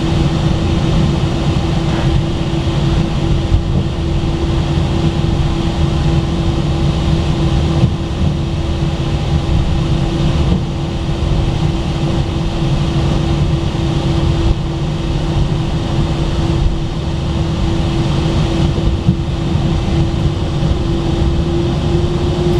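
Airbus A319 jet engines running at low, taxi-level power, heard from inside the cabin: a steady rumble with a constant whine that rises slightly in pitch near the end.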